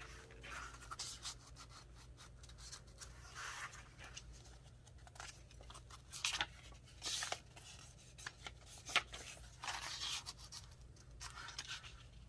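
Paper rustling and sliding as collage pieces are handled and moved around on a journal page, with scattered soft scrapes and rubs.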